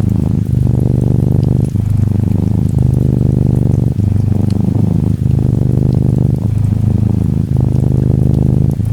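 Orange tabby Norwegian Forest Cat kitten purring close up: a steady low rumble in breath cycles, with a short break about every second and a quarter.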